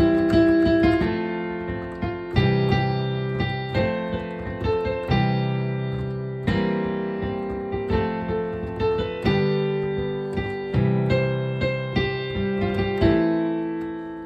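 Piano played with both hands: a slow right-hand melody over sustained left-hand chords that change about every second or two.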